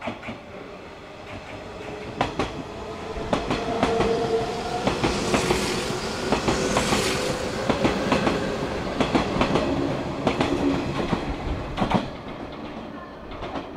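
Kintetsu electric train moving along the station tracks, its wheels clicking over rail joints. The sound builds over the first few seconds, stays loud, and drops off about twelve seconds in.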